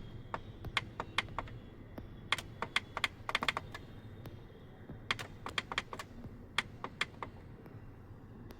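Buttons clicking under quick runs of presses, three bursts of sharp clicks over a low steady hum.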